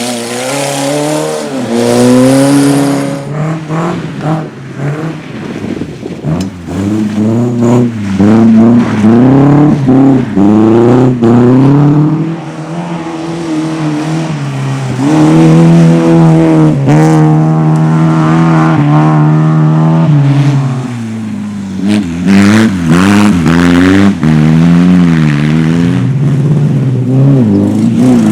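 Rally car engine driven hard at full throttle: the engine note climbs through the revs and drops at each gear change, over and over, with a long high-revving stretch about halfway through.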